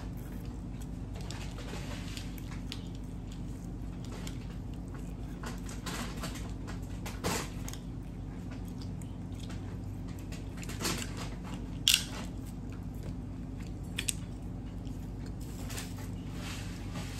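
Close-miked chewing and biting of crab meat, with scattered small clicks and a few sharper ones, the loudest about twelve seconds in. A steady low hum runs underneath.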